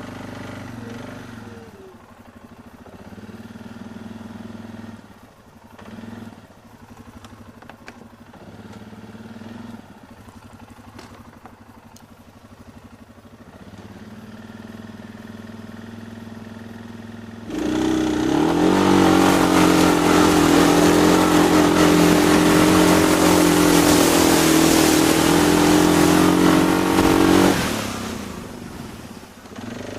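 Off-road vehicle engine running at a low level, then about two-thirds of the way through an engine opens up suddenly to full throttle and runs hard and loud for about ten seconds before dropping away, as in a mud bog run.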